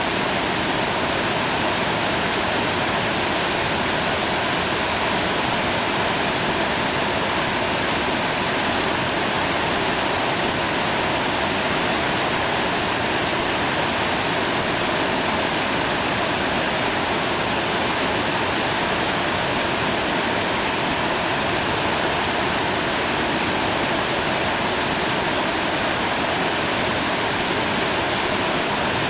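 Whitewater rapid rushing steadily, an even wash of water noise with no breaks.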